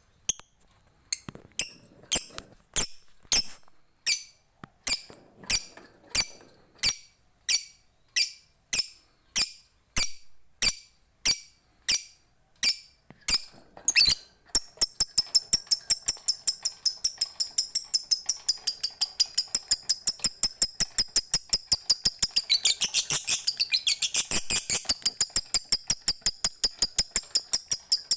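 Lovebird calling: sharp high chirps repeated about two a second, then about halfway it breaks into its long ngekek, a fast unbroken chatter of many chirps a second that runs on to the end.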